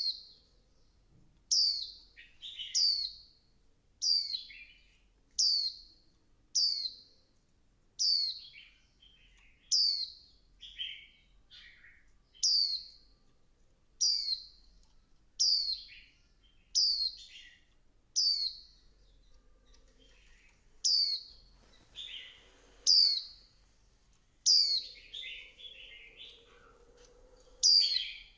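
Female white-eye calling: a short, high, down-slurred call repeated about every second and a half, with softer, lower chattering notes in between. This is a female's call used as a lure to set male white-eyes singing hard.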